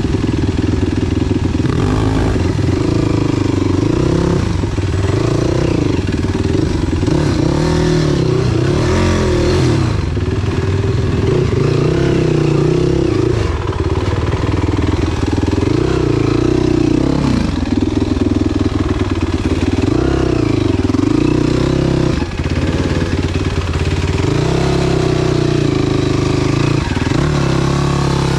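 Enduro motorcycle engine running hard while riding, its revs rising and falling again and again as the throttle is worked.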